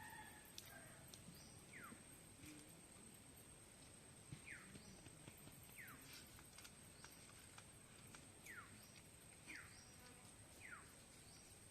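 Near silence with faint, short, falling chirps about every one to two seconds, from a bird, over a steady high thin insect-like whine.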